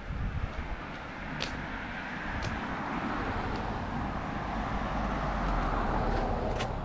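A road vehicle passing close by: its engine and tyre noise swell over a few seconds, then ease off near the end.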